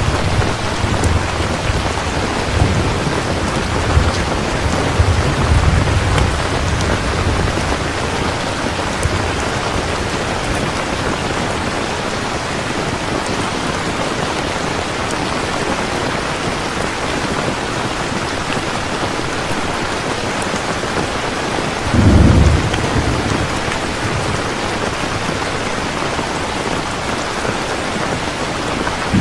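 Heavy rain falling steadily in a thunderstorm. Thunder rumbles low through the first several seconds, and a short, louder thunderclap comes about three-quarters of the way through.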